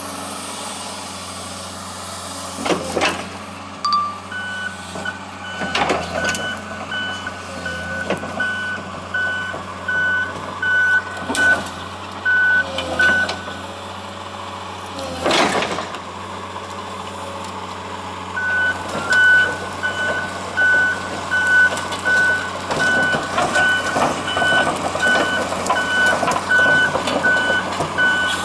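A 1999 Komatsu PC200LC-6 excavator's travel alarm beeping at one steady pitch, about once a second, over the steady running of its diesel engine. There are several loud knocks, and the beeping stops for a few seconds in the middle before starting again.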